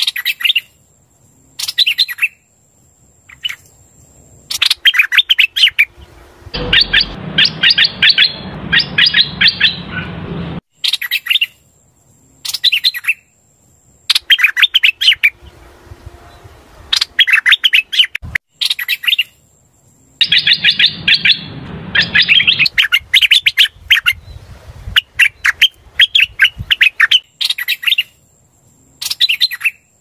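Song of the bird known in Vietnam as hoành hoạch, played as a lure recording. It comes as loud runs of rapid, sharp chirping notes, phrase after phrase, with short pauses between them.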